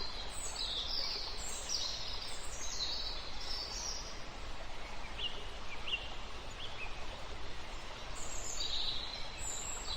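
Birds chirping over a steady hiss of background noise, with a few short rising notes in the middle.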